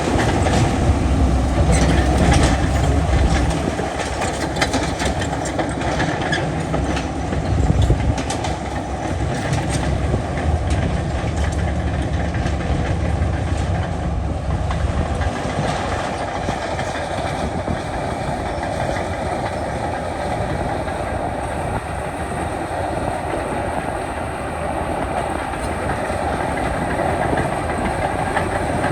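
Heavy diesel earthmoving machinery working: a steady engine din with a deep rumble that swells in the first few seconds and again from about eight to fifteen seconds in, with many sharp clicks and knocks in the first half.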